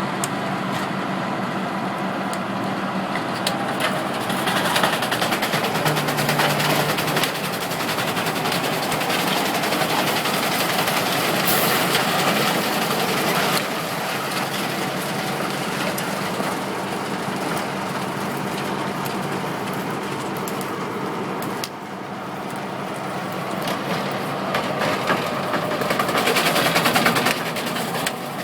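Truck-mounted 12-inch wood chipper running: a steady engine hum under a dense, continuous mechanical noise that swells louder several times.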